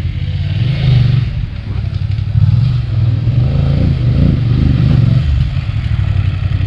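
BMW adventure motorcycle engine running with uneven, rising and falling revs, which the rider calls misfiring.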